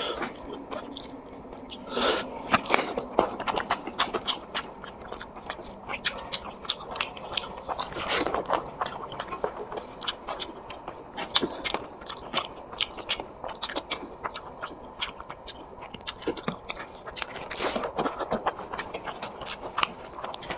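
A person chewing and biting food close to the microphone, eating chicken curry with rice: a dense, irregular run of wet clicking and smacking mouth sounds with occasional crunches.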